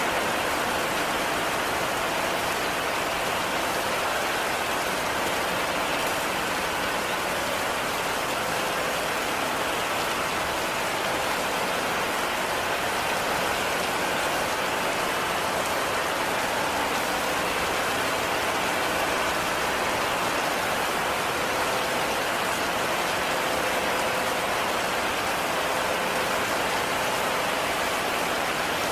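Heavy rain falling steadily, a dense, even hiss of drops on the roof with no pauses or changes.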